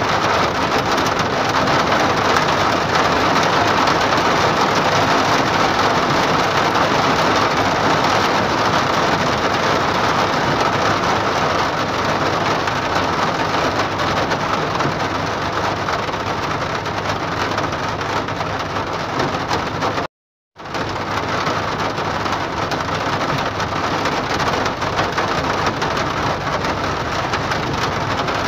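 Steady hiss of heavy rain, cutting out completely for about half a second some twenty seconds in.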